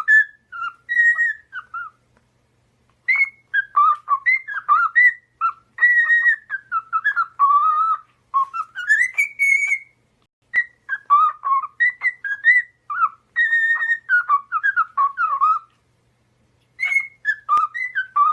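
A bird whistling a run of short, clear, gliding notes in quick phrases, broken by a few brief pauses.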